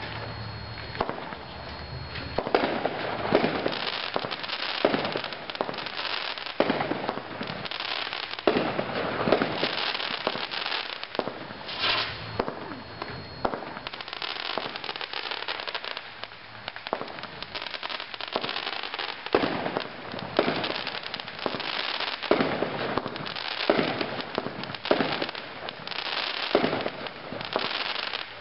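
Light Brigade 42-shot fireworks cake firing: a steady run of shots and aerial bursts, a little more than one a second, with crackling between them.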